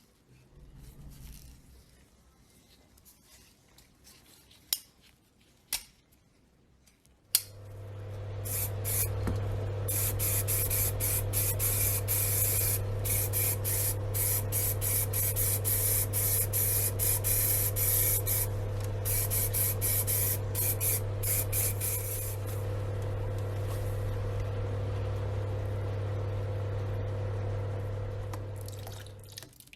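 A few sharp clicks, then a small electric air compressor starts and runs with a steady hum, while compressed air hisses from a spray nozzle in repeated on-off bursts through the middle stretch and stops well before the compressor does.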